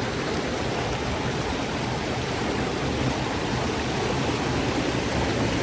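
Waterfall and river water rushing, a steady full hiss.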